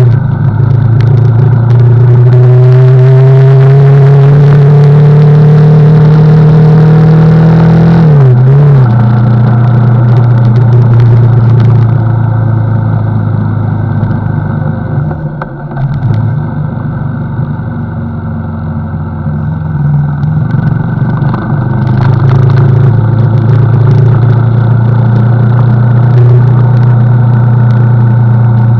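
CFMoto NK motorcycle engine running while riding: the engine note climbs steadily for about eight seconds, drops at a gear change, then holds fairly steady, easing off briefly around the middle before pulling again.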